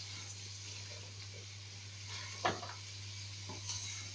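Spiced ghee mixture frying in a pan with a steady faint sizzle, stirred with a spoon; one louder scrape of the spoon against the pan about halfway through, with a few lighter ones.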